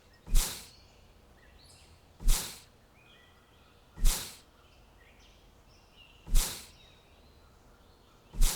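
Small birds chirping faintly, broken by a loud, short noise burst that fades quickly and repeats about every two seconds, five times in all.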